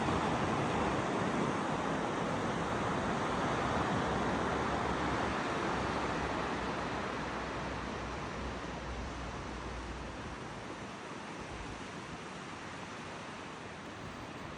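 Ocean surf washing onto a beach: a steady rush of breaking waves that slowly eases off over the second half.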